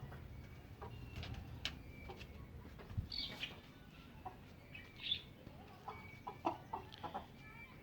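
Chickens clucking quietly, with scattered short calls and chirps.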